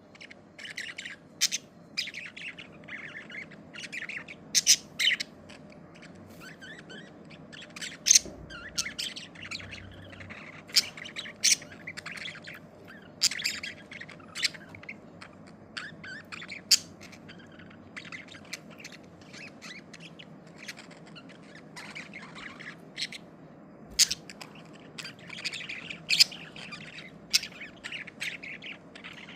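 Pet budgerigars chirping and squawking: many short, sharp, high calls in quick clusters with brief pauses, over a faint steady low background noise.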